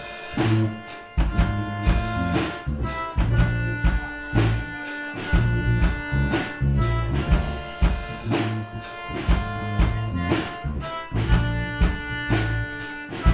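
Live gypsy rock band playing an instrumental passage: drum kit keeping a steady beat under bass, guitar and held accordion notes.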